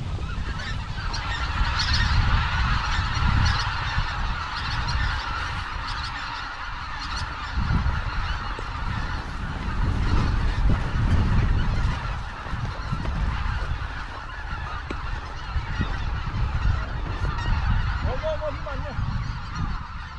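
Many birds calling at once in a continuous chorus, over a low rumble of wind on the microphone.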